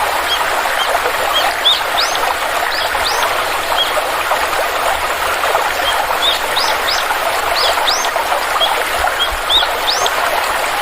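A flowing stream rushing steadily, with small birds chirping often in short, high, rising notes.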